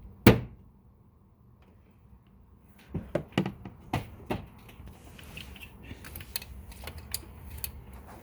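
Hand tools and bolts clinking and knocking on metal in an engine bay: one sharp knock, then after a pause a run of clicks and taps that settles into small rapid ticks.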